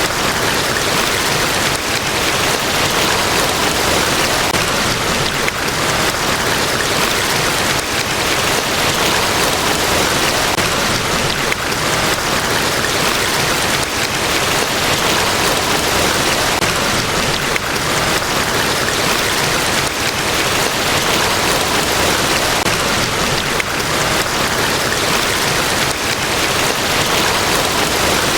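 Large waterfall, Niagara Falls, a steady unbroken rush of falling water, heaviest in the hiss and splash rather than the low rumble.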